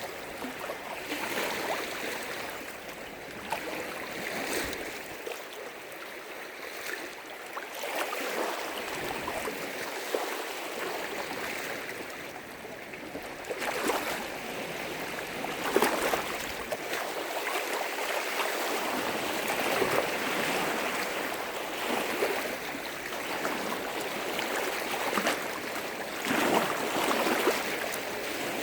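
Lake waves splashing and lapping against the shore, a continuous wash of water with irregular sharper splashes every few seconds.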